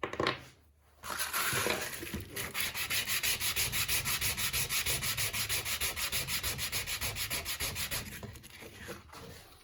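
An electric-motor carbon brush is rubbed back and forth by hand on sandpaper in quick, even strokes, about five a second, grinding it down to fit a starter motor. The strokes start about a second in and fade near the end.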